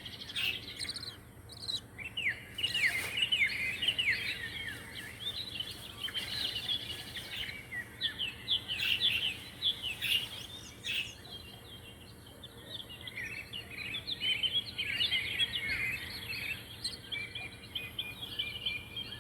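Small pet birds chirping and twittering continuously: many quick, high chirps, most of them sliding down in pitch.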